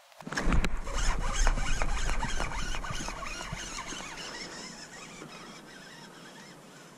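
Fishing reel buzzing with rapid clicking. It starts suddenly and fades over several seconds.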